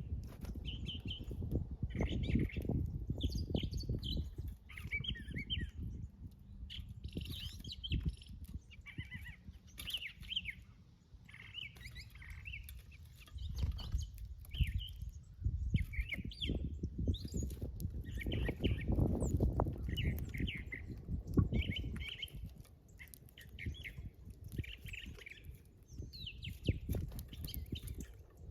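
Small birds chirping in short, repeated bursts, one burst every second or so, over a low rumbling noise.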